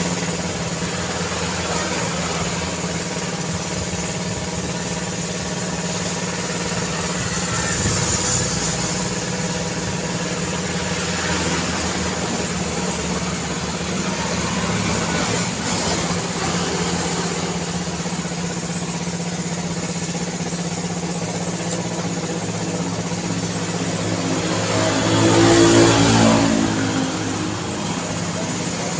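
City road traffic: vehicle engines running steadily, with one vehicle passing close and loud near the end.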